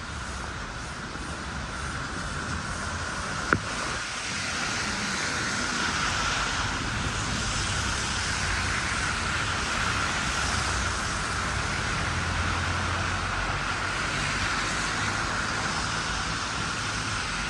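Steady city street noise in heavy snow: traffic hissing on a wet, slushy road, with one sharp click about three and a half seconds in.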